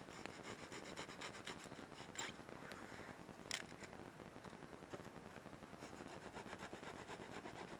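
Wood campfire crackling softly, with a steady patter of small crackles and two sharper pops about two and three and a half seconds in.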